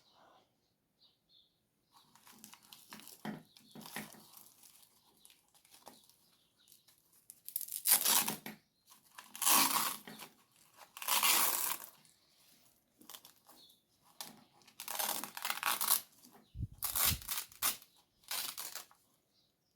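Handling noise from disassembling an RC truck: a series of separate short scraping, rustling noises, each about half a second to a second long, the loudest few in the second half.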